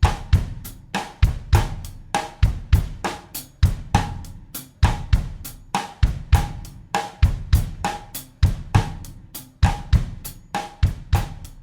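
Acoustic drum kit playing a steady bossa nova groove in 4/4 at 100 beats per minute: a repeating loop of sharp stick strikes over regular low kick-drum hits.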